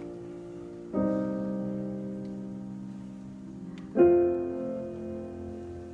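Piano playing the closing chords of a song: two chords struck about three seconds apart, each left to ring and fade.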